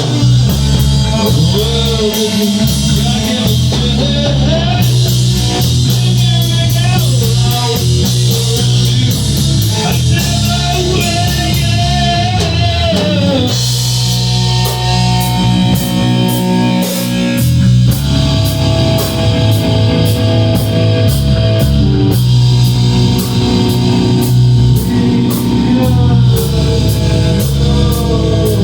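Rock band playing: guitar over bass and a drum kit, with bending melodic lines.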